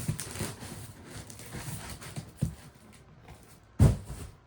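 Handling noise from a cardboard parcel being moved and started on: soft rustling and a few irregular dull thumps, the loudest about four seconds in.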